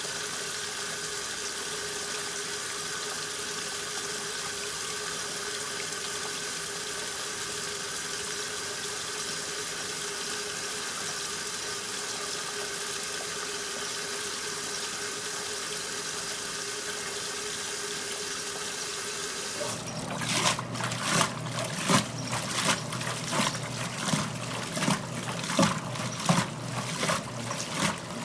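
1969 Westinghouse washing machine filling, a steady rush of water with a hum underneath. About twenty seconds in the fill stops and the wash action begins: water sloshing in a regular rhythm, about one and a half strokes a second.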